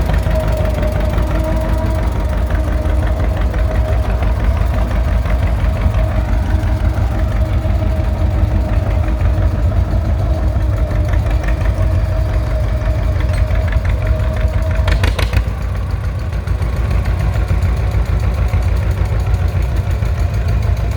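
John Deere 720's two-cylinder tractor engine running steadily as it pulls out, a fast, even low beat. A short sharp noise cuts in about fifteen seconds in.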